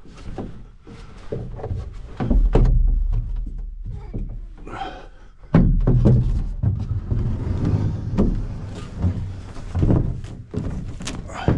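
A series of irregular knocks and thuds, the loudest about two seconds and five and a half seconds in, each followed by a low rumble.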